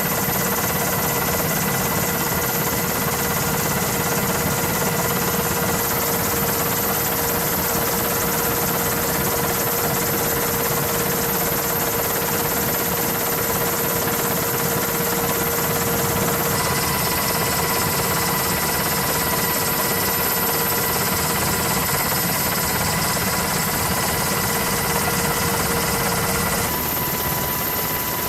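Steady, loud aircraft engine roar with a constant whine, as on a carrier flight deck. The mix of tones changes abruptly three times, about six, sixteen and twenty-seven seconds in.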